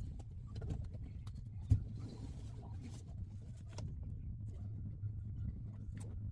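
Scattered light clicks and taps, like small objects being handled, with one sharper knock a little under two seconds in, over a steady low hum.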